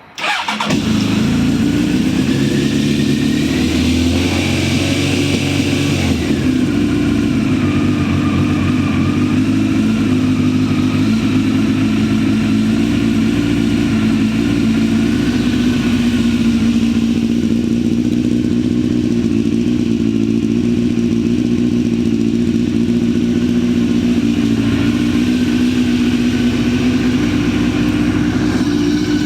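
A 1995 Honda CBR900RR's inline-four engine starting from cold. It catches at once and runs on at a steady idle, its note rising and falling slightly in the first few seconds.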